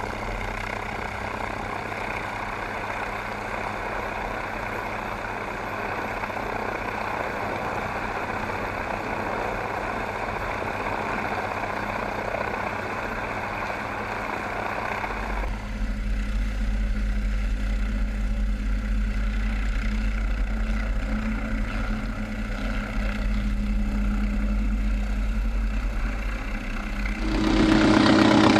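Engine running steadily. About halfway through it shifts to a deeper hum, and near the end it grows louder with a steady droning tone.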